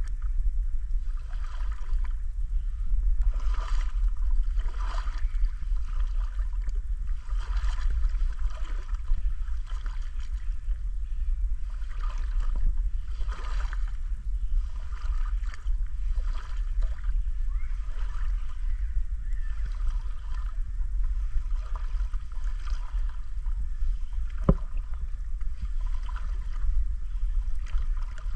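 River water lapping and gurgling in irregular splashes, over a steady low rumble, with one sharp click about twenty-four seconds in.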